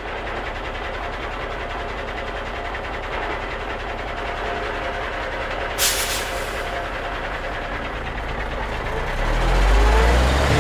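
Vehicle driving sound effect: steady engine and road noise, with a short hiss about six seconds in and a deep rumble swelling near the end.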